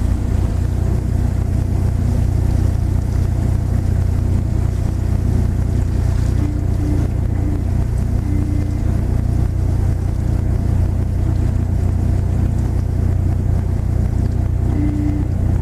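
Car ferry's diesel engine running under way, a steady loud low drone heard from aboard the vessel.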